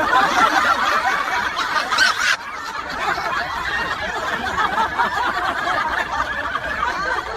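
People laughing and snickering, several voices overlapping, loudest for the first two seconds or so and then carrying on a little lower.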